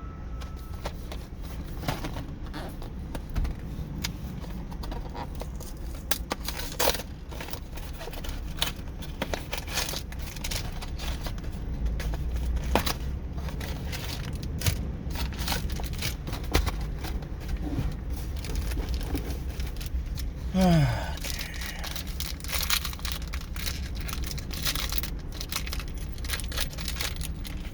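Plastic snack-bar wrapper being handled, crinkling and tearing open, with many small irregular rustles and clicks.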